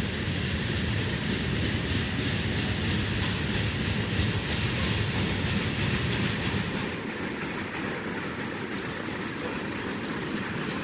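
Freight train cars (tank cars and covered hoppers) rolling past, with steady wheel-on-rail noise. The sound gets a little quieter and duller about seven seconds in.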